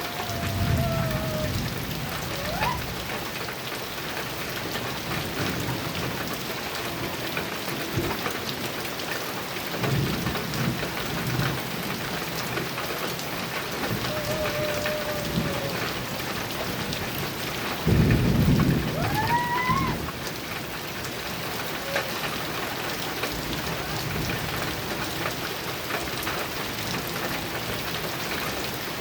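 Heavy rain falling steadily on a metal roof, with low rolls of thunder three times, the loudest about two-thirds of the way through.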